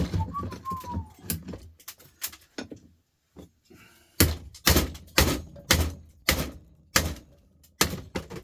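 Repeated hammer blows on a chisel, a cluster of strikes and then a steady run of about two a second; the chisel is only bouncing off the metal rather than cutting in.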